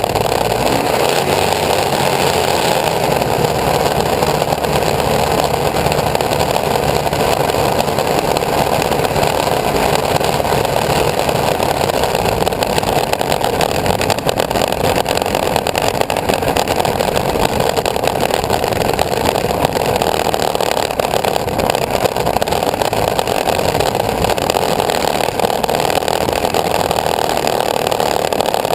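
Engine of a homemade aircraft running steadily, with no change in pitch or level.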